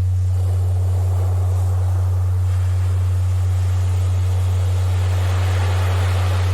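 A steady low tone, the loudest thing here, held without change over a recording of sea surf. The surf swells about a second in and again more strongly around five to six seconds, as waves wash in.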